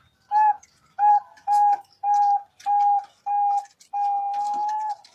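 Zebra dove (perkutut) cooing: a run of six short, even, whistle-like notes on one pitch about half a second apart, ending in a longer held note.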